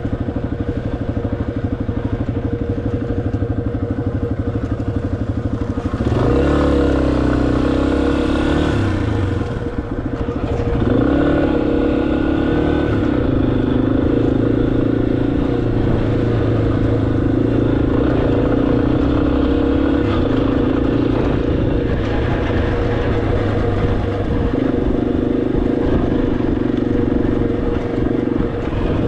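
Motorcycle engine running under way, picking up revs about six seconds in, easing off briefly near ten seconds, then pulling steadily with small changes in engine speed.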